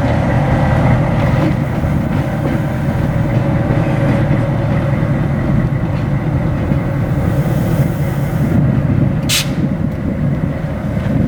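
EMD GP-7 diesel locomotive, with its 16-cylinder 567 two-stroke engine, running steadily during yard switching. A short, sharp hiss comes about nine seconds in.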